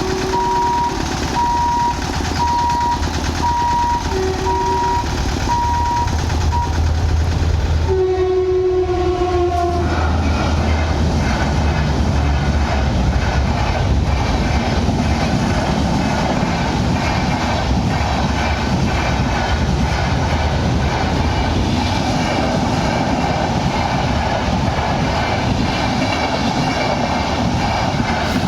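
Indian express train approaching and rushing past at speed. Short horn blasts come first, then a longer horn about eight seconds in that drops slightly in pitch as it passes, followed by a steady rush and rumble of the coaches rolling by. A repeating beep sounds over the first several seconds.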